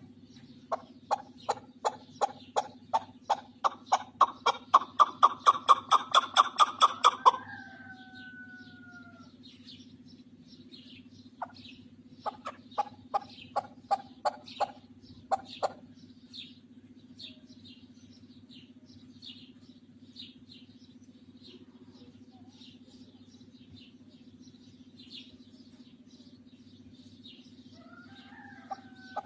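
Partridges calling: a run of sharp clucks that speeds up and grows louder for about seven seconds, ending in a drawn-out falling note, then a second, shorter run of clucks a few seconds later. Faint high chirps and a steady low hum sit underneath.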